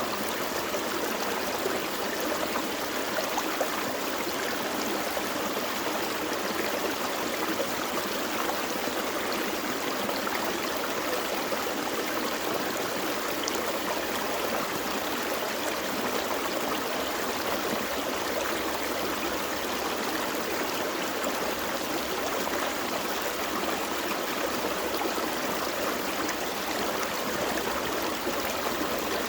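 Gentle forest creek flowing and trickling over stones: a steady, even rush of water.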